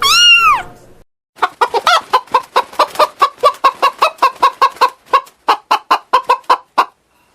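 A cat's falling meow, then after a brief pause a chicken clucking in a fast, even series of short clucks, about four or five a second.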